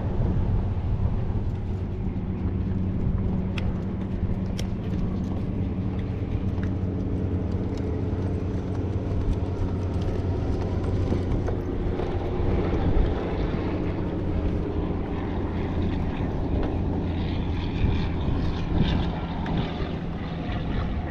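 Steady low engine drone, a constant hum with overtones that shifts slightly in pitch about halfway through.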